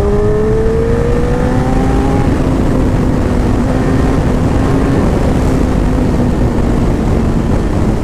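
Suzuki Hayabusa's inline-four engine with an aftermarket slip-on exhaust, rising in pitch as it accelerates over the first two seconds, then running steadily at cruising speed over heavy wind rush.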